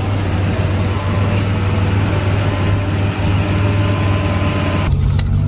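1987 Buick Grand National's turbocharged 3.8-litre V6 running steadily with a deep low hum. About five seconds in the sound changes abruptly to a quieter, thinner hum.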